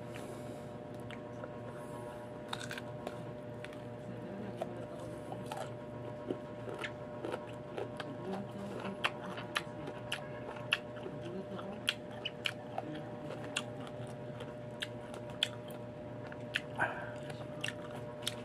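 Biting and chewing an unripe green mango close to the microphone: irregular crisp crunches and wet mouth clicks as the firm flesh is bitten off and chewed.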